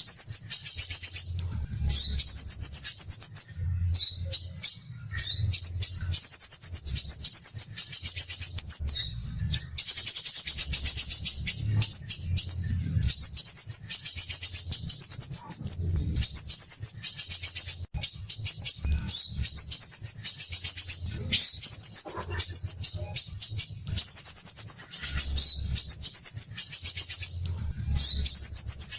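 Crimson sunbird (sepah raja) singing in dense, harsh, rapid high-pitched trills ('besetan kasar rapat'). The phrases run about one to two seconds each, with only short breaks between them.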